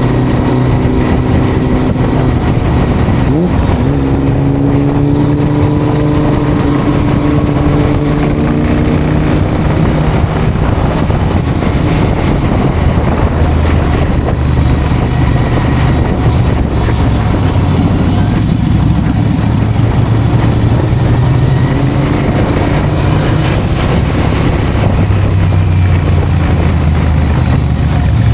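Motorcycle engines running on the move, their pitch rising and falling several times with changes in revs.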